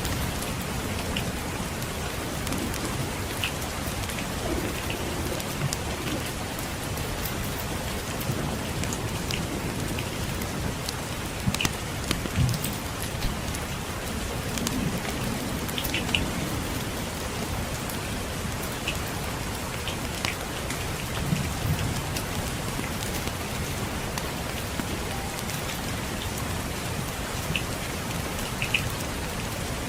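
Steady rain falling, with scattered short crackles and pops from a wood fire and a few low rumbles of distant thunder.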